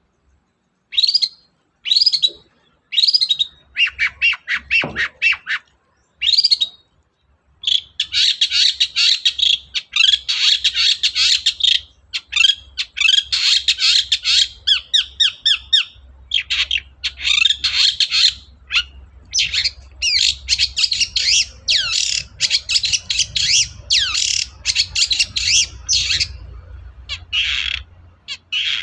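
Long-tailed shrike (cendet) singing. It starts with a few separate sharp calls, then from about four seconds in gives long runs of fast, harsh chattering notes broken by short pauses.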